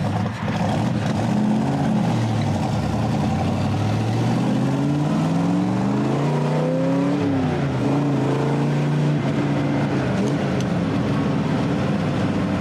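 1965 Corvette Stingray's V8 engine accelerating through the gears of its four-speed: the engine pitch climbs, drops back at a shift about three seconds in, climbs again, drops at another shift about seven seconds in, then holds a steady pitch.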